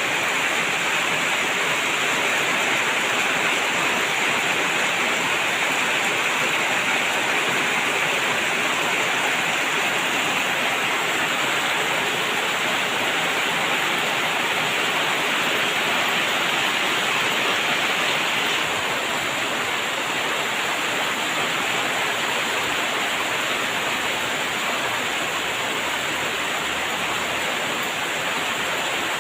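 Steady rain falling, an even hiss without separate drops standing out, easing slightly about two-thirds of the way through.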